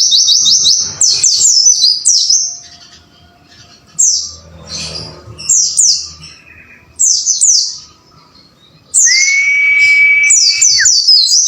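White-eye (pleci) singing: rapid runs of high, downward-sweeping chirps in bursts of a second or two with short pauses between. Starting about nine seconds in, a long steady lower whistle sounds under the song for nearly two seconds and then drops off.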